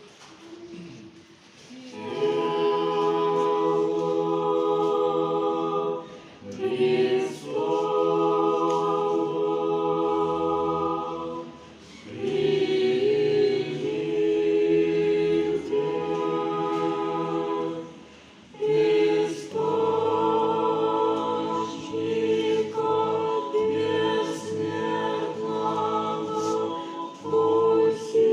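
Choral singing: a choir holding sustained chords in phrases of a few seconds, with short breaks between phrases.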